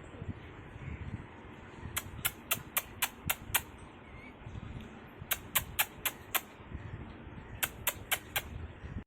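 Three quick runs of sharp clicking taps, about four a second, each run lasting one to one and a half seconds, over a faint low background hum.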